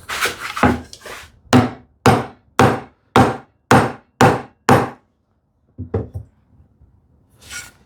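Hammer blows on a wooden drawer back as it is driven into a tight housing dado joint. There are about seven regular knocks, two a second, followed by a couple of lighter knocks.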